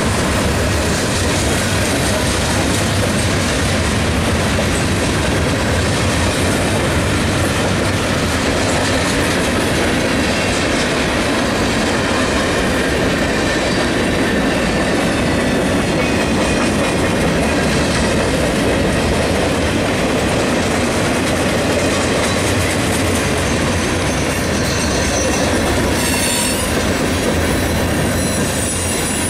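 Freight cars of a passing CN train rolling by close: a steady, loud rumble and clatter of steel wheels on rail. Thin high-pitched wheel squeals come in near the end.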